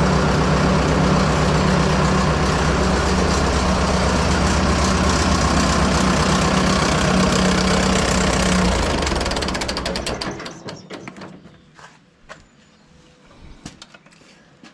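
Fordson Major tractor engine running steadily, then shut off about nine seconds in and running down to a stop within a second or two; a few light clicks and knocks follow.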